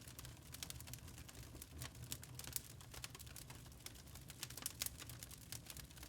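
Log fire crackling in a fireplace: burning wood gives many irregular sharp pops and snaps over a low rumble.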